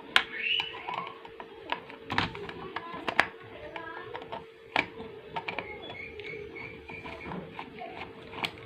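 Irregular small clicks and knocks of metal hardware and tools being handled while the amplifier board is unscrewed from its heat sink, over a faint steady hum.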